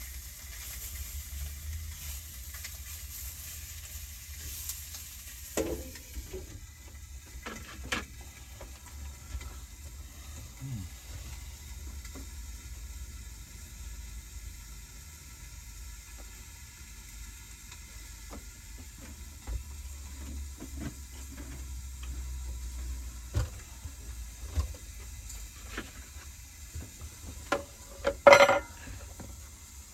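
Smoked sausages sizzling in a frying pan over a low steady hum, with scattered light clicks; the sizzle thins after about six seconds. A sharp clatter near the end is the loudest sound.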